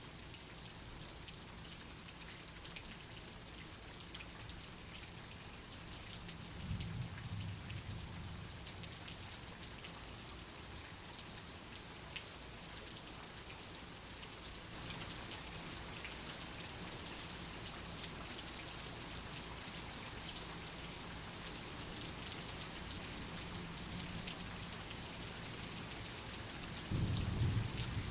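Steady rain falling, a dense even patter. A low rumble of thunder swells about a quarter of the way in, and a louder rumble of thunder starts just before the end.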